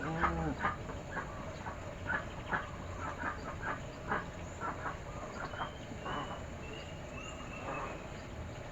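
Birds chirping over and over in short calls, with a short low fowl call just after the start and a run of high whistled notes in the middle.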